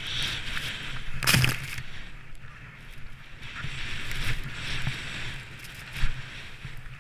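Skis running through powder snow, a hiss that swells and fades, with wind rumbling on the microphone. A louder crunch comes about a second and a half in.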